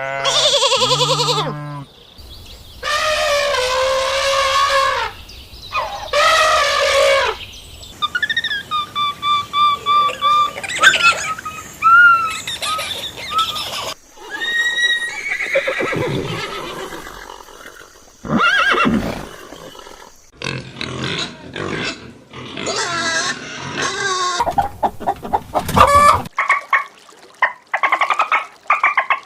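Farm animals calling in a series of short clips: a run of separate pitched calls and cries, one after another with brief gaps and abrupt changes between them.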